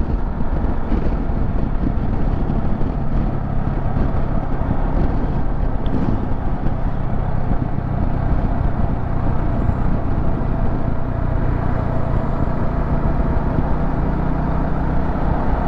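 Motorcycle engine running at a steady cruise with wind and road noise while riding.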